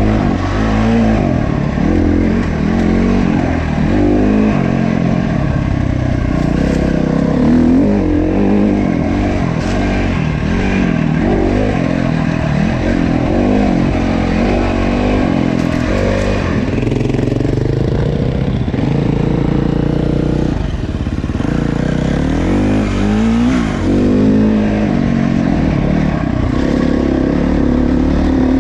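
Dirt bike engine under way on a trail, its revs rising and falling constantly with throttle and gear changes, with one longer climb in pitch about two thirds of the way through.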